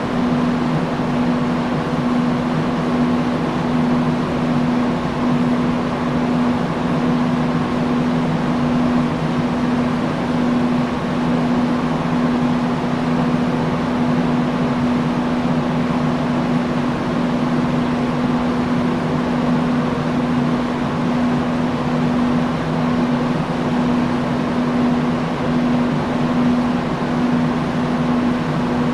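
Industrial fan running steadily: an even rush of air over a constant low hum.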